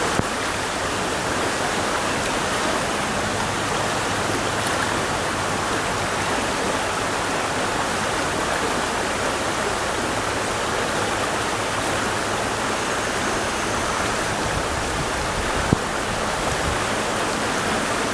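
Steady rush of fast-flowing stream water through a riffle at the head of a run, with one sharp tick about three-quarters of the way through.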